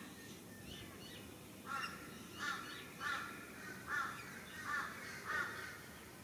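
A bird calling six times in an even series, roughly two-thirds of a second apart, starting about a second and a half in.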